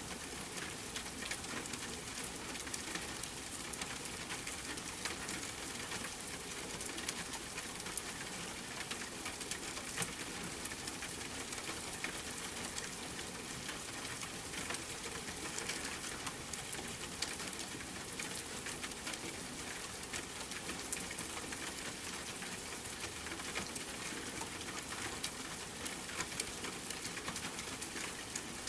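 Steady rain hiss mixed with a wood fire, with scattered sharp crackles and pops throughout; a few louder pops stand out about 8, 10 and 21 seconds in.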